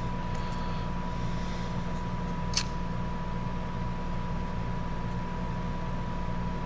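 Steady fan-like whirring with a low electrical hum and a thin steady whine, with a single sharp click about two and a half seconds in.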